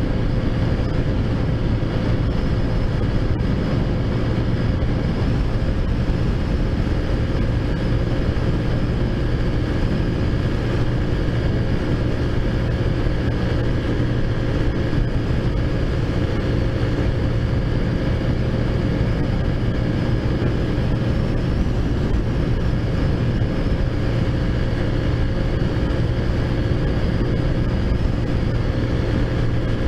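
Taotao Zummer mini bike's modified 50cc four-stroke engine running at a steady cruising speed during a ride, its pitch holding level throughout. Wind noise on the microphone.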